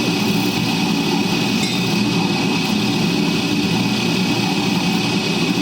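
A motor running steadily, with a thin constant high tone over its rumble.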